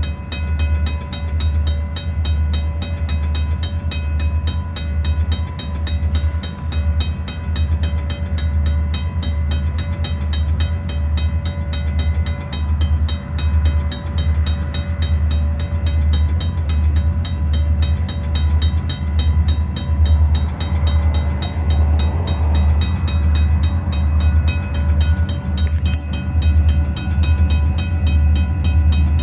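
EMD SD40-2 diesel-electric locomotives running, their 16-cylinder two-stroke diesel engines giving a loud, rhythmic low throb with a steady whine above it.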